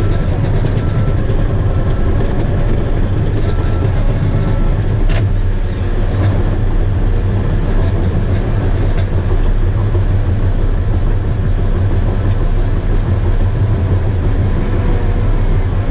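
Bulldozer's diesel engine running steadily, a loud low drone, with the steel tracks clanking and rattling. There is one sharp click about five seconds in.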